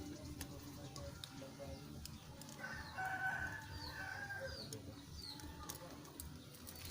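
A rooster crowing once, a held call starting about two and a half seconds in, with a few short high chirps from small birds around it.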